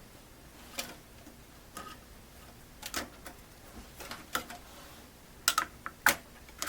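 Irregular clicks and taps of metal and plastic computer-case parts being handled, with the loudest cluster of clicks near the end.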